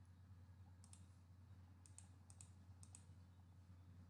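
Near silence with a steady low electrical hum and a few faint, sharp clicks, mostly in quick pairs, about one or two a second.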